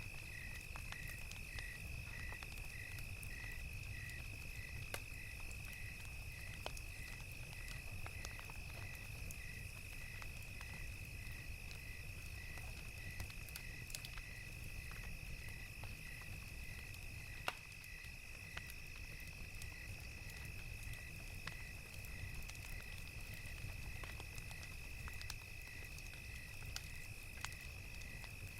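Crickets chirping in an even pulse of about three chirps a second over a continuous high insect trill, with a wood fire crackling in scattered pops and one louder pop about halfway through, above a low steady rumble.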